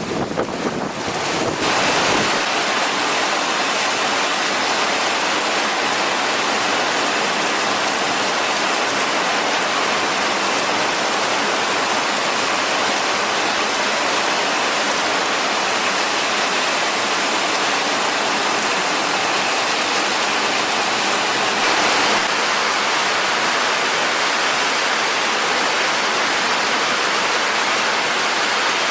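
Heavy rain pouring down in a summer storm, a loud, steady, even hiss. Gusts of wind buffet the microphone in the first couple of seconds.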